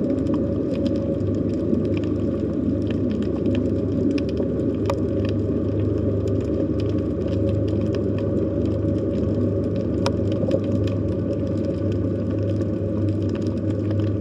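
Underwater sea ambience picked up by a hydrophone: a steady low rumble and hum, with many scattered sharp clicks and crackles over it.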